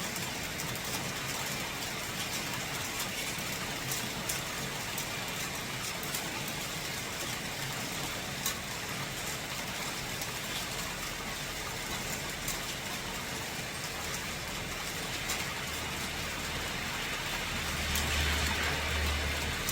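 Steady rain with scattered sharp drop ticks. Near the end a low rumble and hiss swell up and ease off, like a vehicle passing on the wet road.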